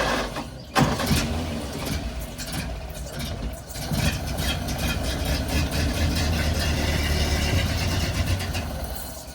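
1930 Ford Model A engine running, louder from about four seconds in and dropping off near the end.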